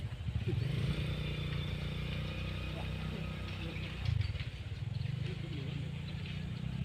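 Truck diesel engine running steadily, with a brief surge about four seconds in.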